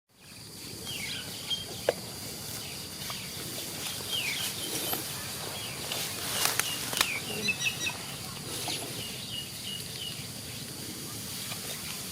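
Outdoor ambience with scattered short, high chirps, some falling in pitch, clustered around the middle, and a few sharp clicks.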